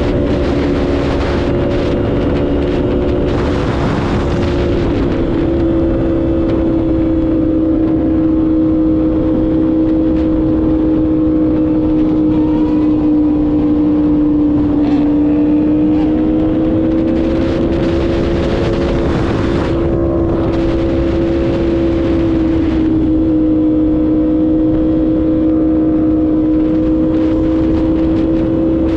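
Yamaha R1M's crossplane inline-four engine running at a steady cruise, its pitch drifting gently up and down, with wind rushing over the microphone.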